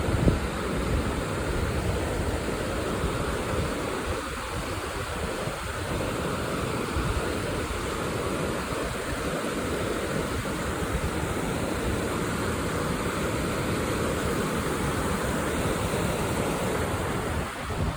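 Creek water rushing steadily over rocks, with some wind buffeting on the microphone.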